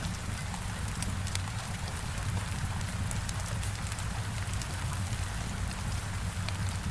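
Heavy rain falling steadily over a low rumble, with a wood fire crackling: scattered sharp pops throughout.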